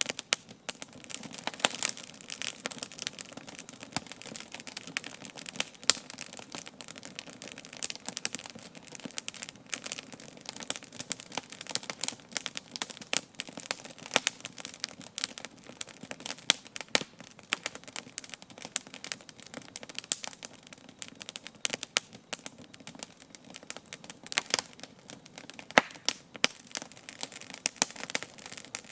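Wood campfire burning, crackling and popping in many irregular sharp snaps over a soft steady rush of the flames.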